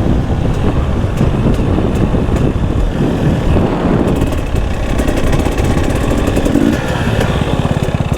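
Husqvarna enduro dirt bike engine running as the bike rides along a trail. Near the end it drops to an even, steady idle.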